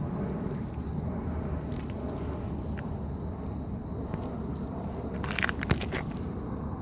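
Outdoor ambience: an insect chirping in short, evenly spaced pulses about twice a second over a steady low rumble, with a few crackling rustles about five seconds in.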